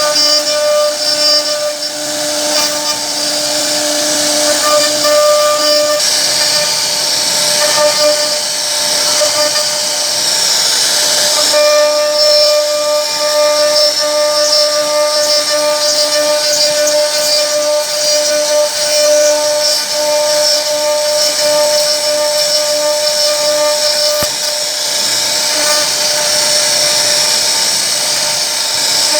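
CNC router spindle running and cutting wood, a steady high whine with the hiss of the bit through the wood; the sound shifts about a dozen seconds in and then holds steady.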